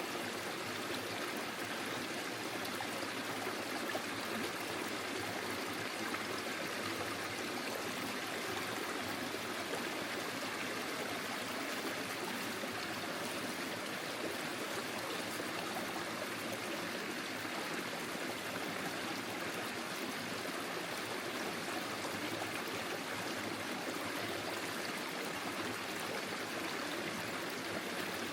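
Small forest stream flowing over stones, a steady rush and babble of water.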